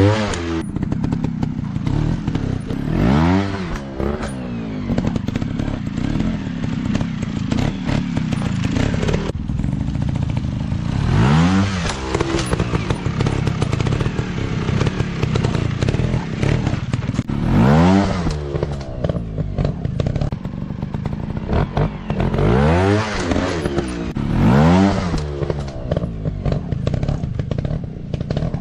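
Small off-road motorcycle engines running continuously, with about six quick revs that rise and fall in pitch, each lasting about a second.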